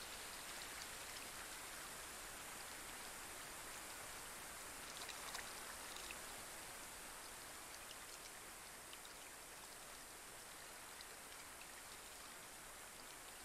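Light rain falling on a pond: a steady, faint hiss with scattered ticks of single drops, and a brief louder patter about five seconds in.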